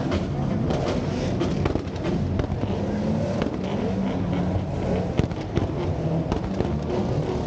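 A drifting car's engine revving up and down as it slides around the track, with scattered sharp pops and cracks.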